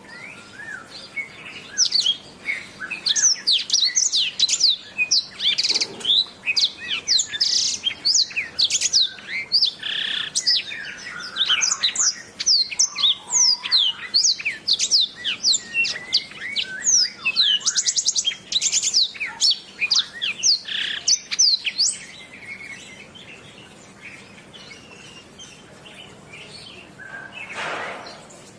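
Domestic canary singing a long, fast song of quick sweeping notes and rapid trills, which breaks off about three quarters of the way through.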